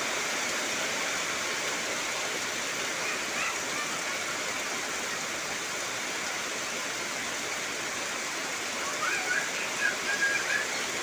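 Heavy rain falling steadily on trees, an even rushing hiss. A few brief faint high-pitched wavering calls sound about three seconds in and again near the end.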